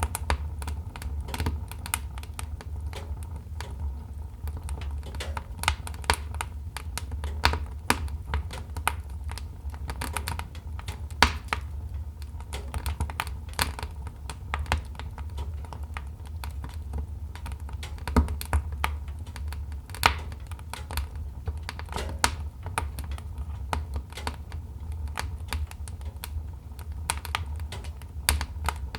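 Wood fire crackling: many irregular sharp snaps and pops, some louder than others, over a steady low rumble.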